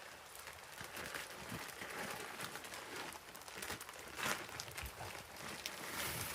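Hamburger and sausage meat sizzling in a frying pan with sauce just added: a steady crackling hiss with scattered pops.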